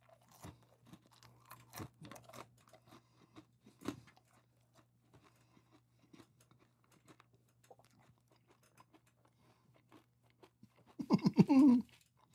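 Caramel-coated popcorn being chewed close to the microphone: scattered faint crunches and clicks, the strongest about two and four seconds in. Near the end the chewer makes a short, loud vocal sound.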